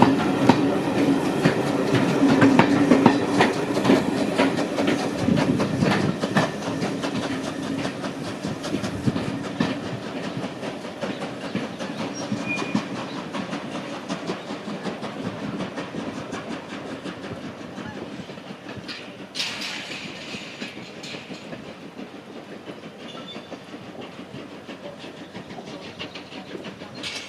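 A train clattering along the rails with rapid clicking, growing steadily fainter as it moves away. A short hiss is heard about 19 seconds in.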